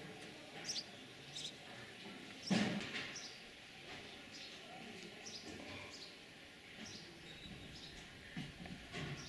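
Small birds chirping in short, scattered high calls over faint outdoor background noise, with one louder brief sound about two and a half seconds in.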